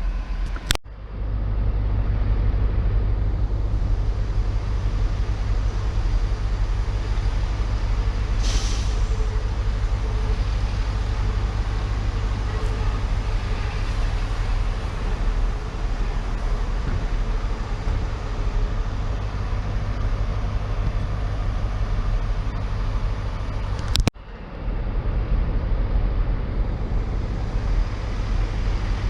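Diesel train's engine running with a steady deep rumble, with a short hiss of air brakes about eight seconds in. The sound breaks off abruptly twice, just under a second in and again about 24 seconds in.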